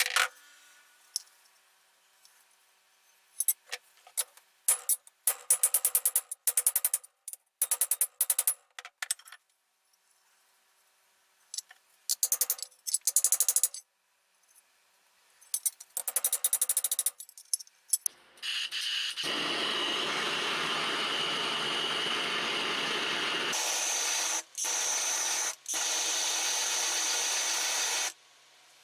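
Hand tool work in short bursts of rapid scraping or brushing. Then a power tool runs steadily for about nine seconds, cut off twice very briefly.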